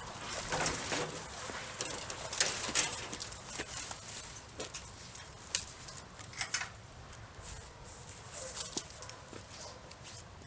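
Rustling and scraping of cut tree branches and leaves, with sharp clicks and knocks, as the load of trimmed branches is tied down with bungee cords.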